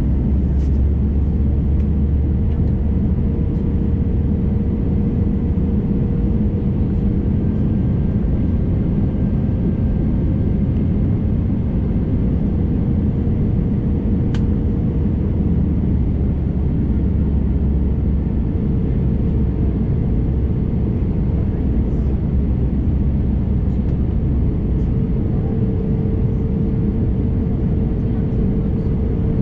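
Steady, loud cabin noise of an Airbus A321neo jetliner: a continuous deep rumble of engines and airflow, with a faint steady hum above it.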